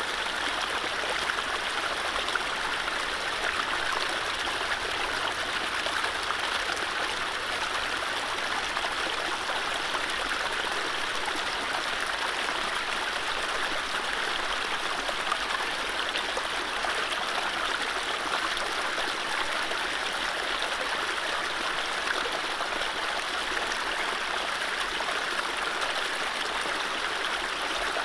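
Mountain stream running over low rapids: a steady rush and babble of water, with no birdsong.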